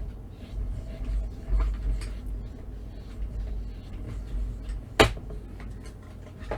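Hand-cranked die-cutting machine rolling a plate sandwich through with a low rumble and scattered clicks, and one loud sharp knock about five seconds in, described as very loud.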